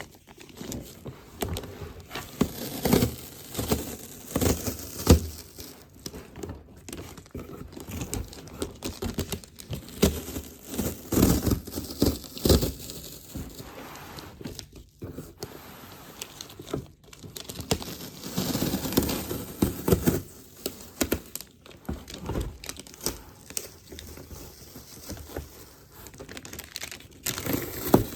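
Packaging being handled, crinkled and torn open by hand, in irregular bursts.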